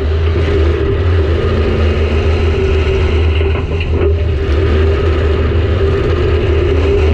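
Demolition derby car's engine running loud and steady, heard from inside the gutted cab, with a deep, even drone and no sharp impacts.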